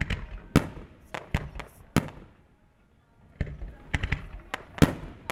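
Starmine fireworks barrage: aerial shells bursting in quick succession, each a sharp bang with a short rumbling tail. After a lull of about a second in the middle, a denser run of bursts follows.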